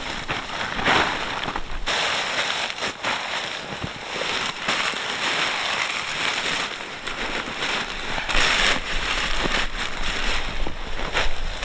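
Wood campfire crackling and popping, with many small sharp snaps over a steady hiss.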